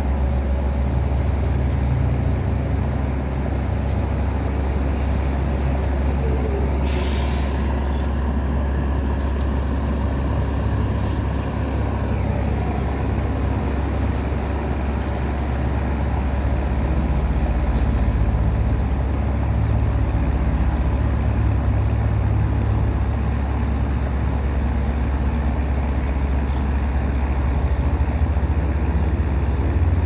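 Wooden tugboat's engine running steadily with a deep drone as it tows four heavy pontoons. A brief hiss about seven seconds in.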